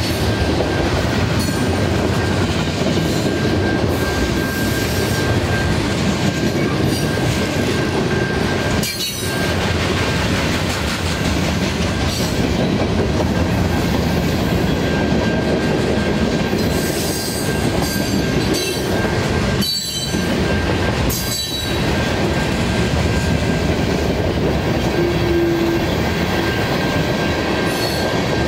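Freight cars of a CN manifest freight train rolling past on a curve: a steady heavy rumble of steel wheels on rail, with a continuous high-pitched squeal from the wheel flanges grinding against the curved rail.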